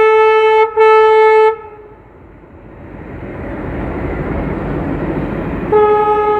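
WDM-3A diesel locomotive's horn: a steady blast that breaks off briefly and sounds again until about a second and a half in, then the rumble of the train rolling in growing louder, and another horn blast near the end.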